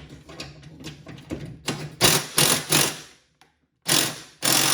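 Socket ratchet loosening the 10mm bolt on a John Deere LA105 mower deck's belt guard. It gives two runs of rapid clicking, each about a second long, the first about two seconds in and the second near the end.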